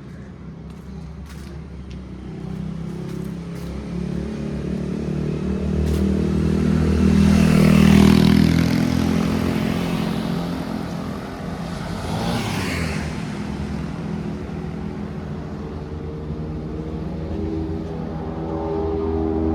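Motor traffic passing on a city street. A steady low engine hum runs throughout, while one vehicle and then a second pass close by with a swell of engine and tyre noise, the first loudest about eight seconds in and the second a few seconds later.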